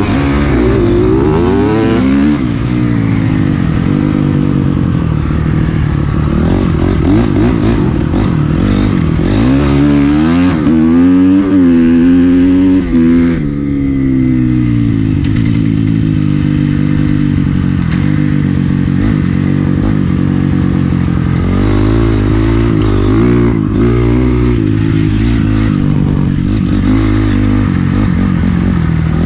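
Dirt bike engine being ridden off and ridden hard, revving up and easing off again and again, with big climbs in pitch near the start, around ten to thirteen seconds in, and again past twenty seconds.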